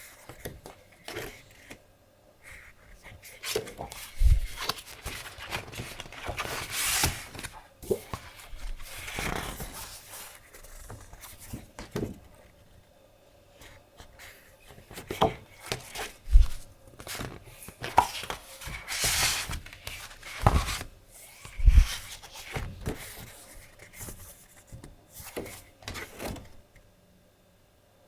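Sheets of decorative paper being handled and rustled, with scattered light knocks and taps between longer rustling swells.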